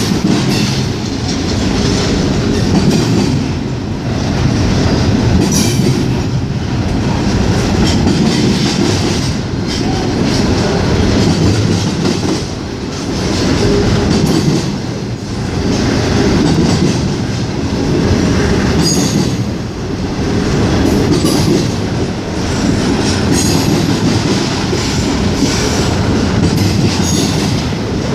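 Norfolk Southern freight train rolling steadily past at close range: a continuous rumble of wheels on rail, swelling and easing every few seconds as the cars go by. The wheels clack over rail joints, with occasional brief high-pitched squeals.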